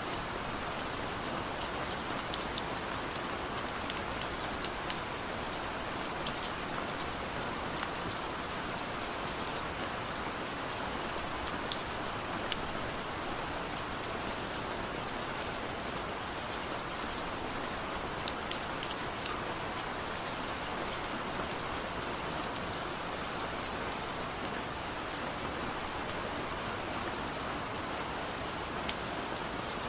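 Steady rainfall, an even hiss with many individual drops ticking sharply as they strike a surface. No thunder is heard.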